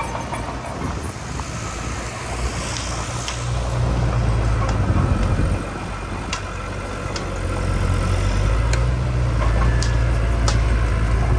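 Heavy diesel earthmoving machinery running, its engine note rising and falling with load, with scattered sharp metallic clicks.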